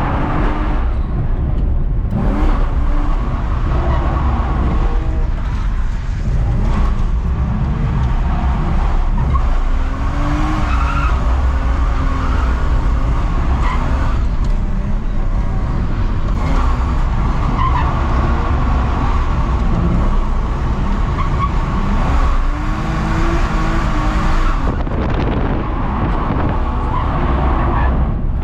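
BMW E46 325Ci's straight-six engine revving up and down repeatedly while drifting, with tyres skidding and squealing.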